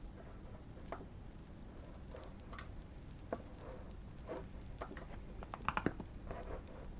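Fireplace crackling: irregular, scattered pops and snaps over a steady low rumble, with a quick run of three pops about six seconds in.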